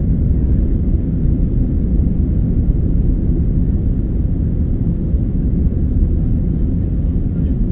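Boeing 767-300 airliner's jet engines and airflow during takeoff: a steady low rumble.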